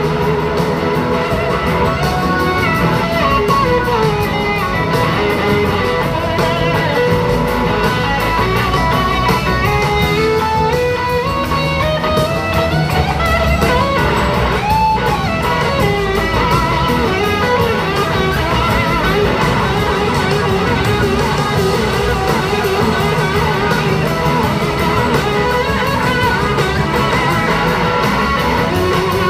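Live blues-rock band playing an instrumental passage: an electric slide guitar lead with gliding, bending notes over bass, drums and keyboards.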